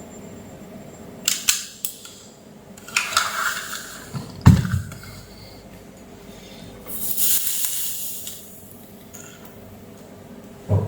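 Handling noises: several sharp clicks, a heavy knock about four and a half seconds in, a rustling hiss lasting about a second and a half from around seven seconds, and another knock near the end.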